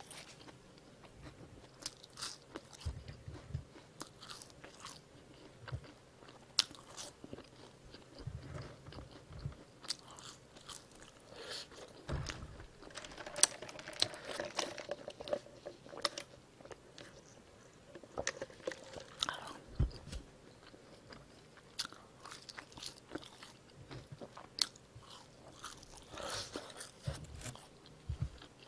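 A person chewing a mouthful of squid burger close to the microphone: soft, irregular chewing clicks. Around halfway through, a drink is sipped through a straw.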